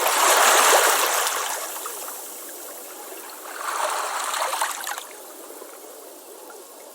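Ocean waves washing onto a beach. One wave swells in right away and fades over about two seconds, and a smaller one washes in about three and a half seconds in, leaving a softer steady wash.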